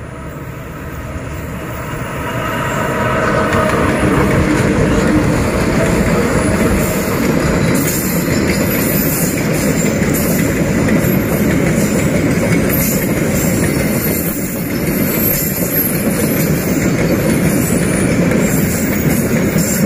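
A diesel locomotive hauling loaded bulk-cement tank wagons passes close by. The engine grows louder over the first few seconds, then the wagons rumble past with wheel clatter over the rail joints and high-pitched wheel squeals.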